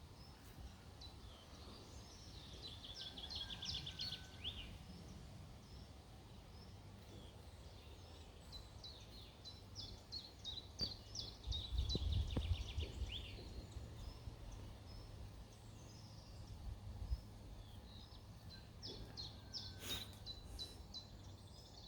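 A songbird singing the same short phrase three times: a fast run of high notes that ends in a trill. Under it runs a steady low rumble, which swells about halfway through.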